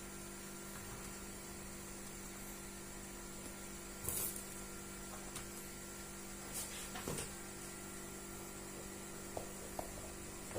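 Steady electrical mains hum, with a few small knocks and clicks of handling: one about four seconds in, a couple around seven seconds and two light ticks near the end.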